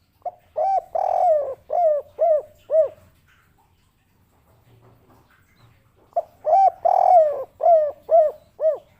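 Spotted dove (derkuku) cooing: two song phrases about three seconds apart. Each is a few short coos and one longer note, ending in three short, arched 'kuk' notes, the 'kuk 3' song type that keepers prize.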